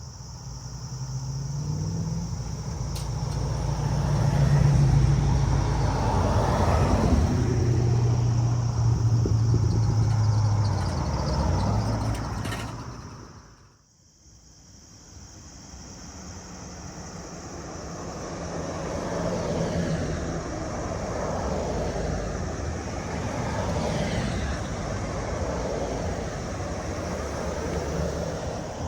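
A car driving past, its engine growing louder, dropping in pitch and fading out about 13 seconds in. Then another vehicle's engine comes up and keeps running steadily.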